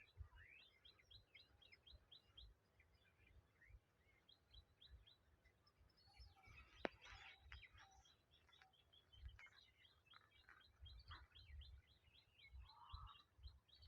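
Faint birdsong: runs of quick, high repeated chirps, several a second, with low thumps underneath and one sharp click about seven seconds in.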